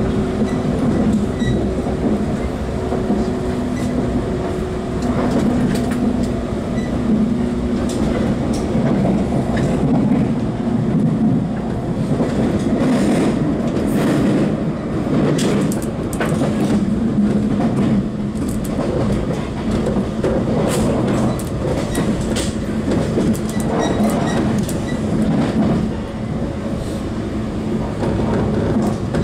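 Running noise of a JNR 183/189 series electric train heard from the passenger cabin of a motor car, over the bogie: a steady hum from the traction motors and gears under a rolling rumble. Sharp clicks of the wheels over rail joints and points come now and then, thickest in the middle.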